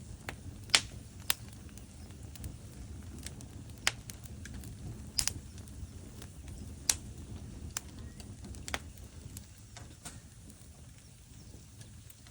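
Wood fire burning in a fireplace: a steady low rumble of flames with sharp, irregular crackles and pops from the logs, a few standing out louder than the rest.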